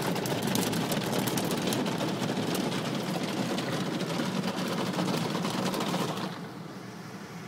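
Automatic car wash spraying water against the car, heard from inside the cabin as a loud, even hiss with fine crackling. It drops to a quieter hiss about six seconds in.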